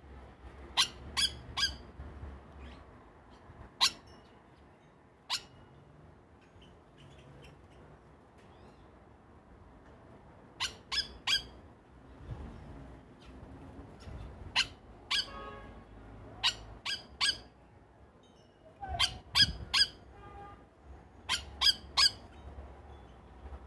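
Bird calling in short, sharp notes, mostly in quick runs of three that repeat every few seconds.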